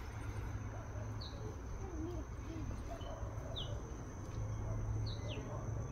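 A small bird gives a few short, falling chirps over a steady, high-pitched insect drone, with a low rumble underneath.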